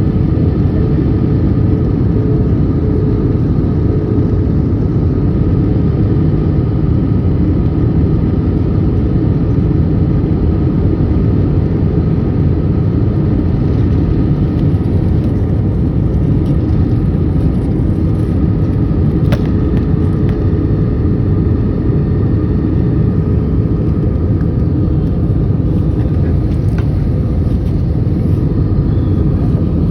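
Airliner cabin noise from a window seat: the steady, loud low rumble of the jet engines and rushing air, with a faint steady hum on top.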